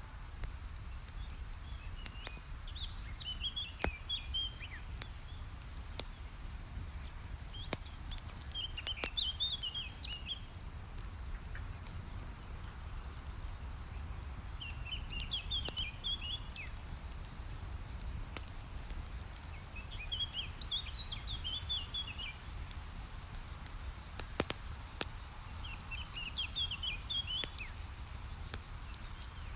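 Campfire crackling with scattered sharp pops. A songbird sings five short twittering phrases, spaced about six seconds apart, over a steady low outdoor rumble.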